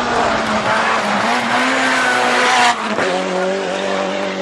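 Rally car engine pulling hard with its pitch slowly rising. About two and a half seconds in the sound cuts off sharply and settles to a lower, steadier note, as on a lift or gear change.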